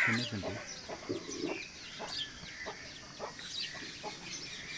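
Chickens clucking: a scatter of short calls.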